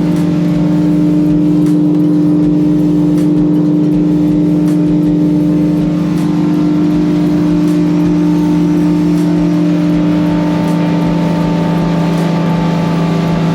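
A boat's engine running steadily under way, a loud constant hum that holds one pitch throughout.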